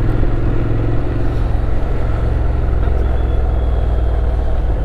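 Motorcycle engine running at low road speed under a haze of wind and road noise; the engine note drops slightly about two seconds in, then holds steady.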